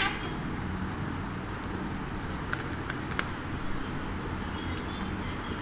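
Steady background noise with a low hum like distant traffic, with a few faint sharp clicks in the middle and faint high chirps near the end. The tail of a loud, pitched Alexandrine parrot call is heard at the very start.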